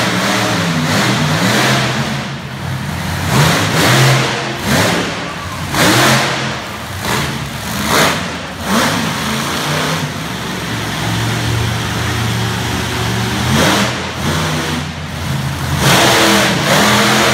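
Monster truck engine revving hard in repeated surges, the pitch climbing and dropping again and again, with a steadier run of several seconds partway through before it revs up again near the end.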